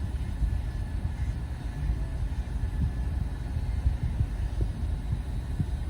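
Low, steady rumble of a car idling, heard from inside the cabin while waiting in line.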